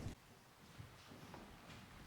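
Near silence: room tone, with a few faint small clicks.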